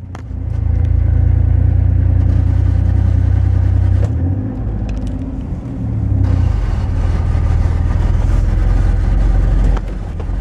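Chevy 4x4 pickup truck's engine labouring uphill under load with a deep rumble that sags about four seconds in and again near the end. The truck is stuttering and losing power under load, a fault whose cause the owner has not pinned down.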